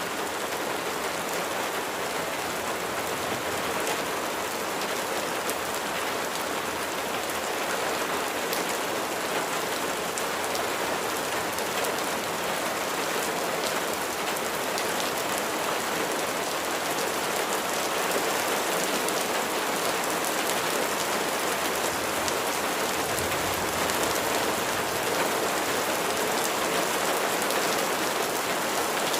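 Steady rain falling: a continuous even hiss of rain, dotted with the fine ticks of individual drops striking a surface.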